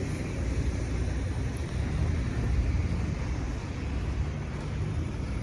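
Steady low rumble of street traffic, a motor vehicle engine running close by.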